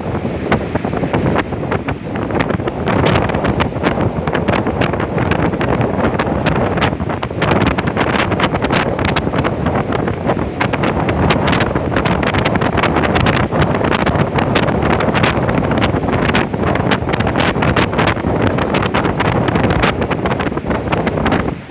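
Gale-force storm wind buffeting the microphone in a loud, unbroken rush, with frequent sharp crackles through it.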